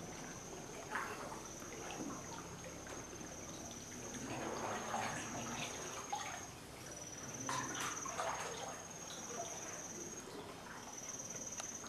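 High, steady insect trill, repeating in stretches of one to three seconds with short breaks between them.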